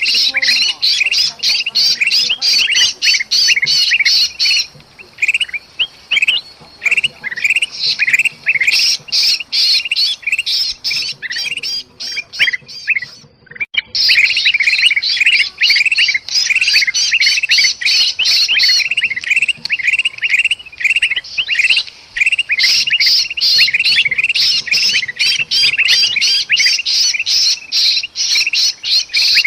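Bulbuls calling in an agitated, noisy chorus, a dense stream of rapid sharp chirps and squawks with a short break about halfway through, mixed with the distress calls of a bulbul that is caught. It is an alarm and mobbing commotion used as a lure to draw birds in.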